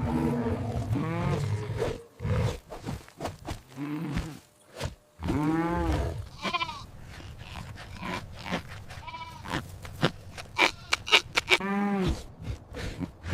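Farm animal bleating: several separate wavering calls, one about a second in, a loud one around six seconds, and another near the end.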